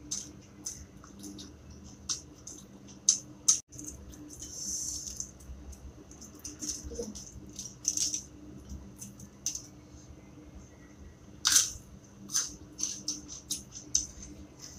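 Raw cabbage leaves crackling as they are torn by hand and crunched while chewing: an irregular series of short, crisp crackles, with a few louder snaps.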